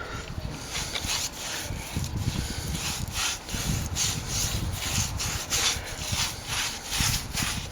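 A paintbrush worked back and forth over a sand-textured plaster wall, a quick run of scratchy brush strokes at about two to three a second.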